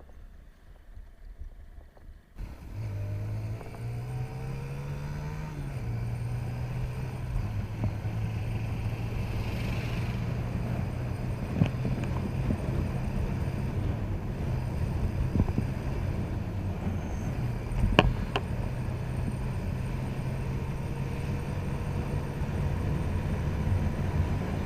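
Motorcycle engine running as the bike rides along a road. It starts about two seconds in, its pitch climbs in steps and drops back as it picks up speed through the gears, then holds steady. A few sharp knocks stand out, the loudest about 18 seconds in.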